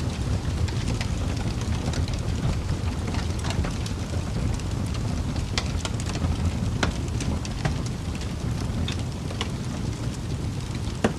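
Wood fire in a fireplace crackling: a steady low rumble of burning logs with irregular sharp pops, the loudest one near the end.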